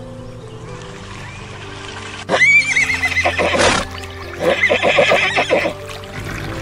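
A horse whinnies over steady background music: a loud, high, wavering call about two seconds in that breaks into a run of quick pulses.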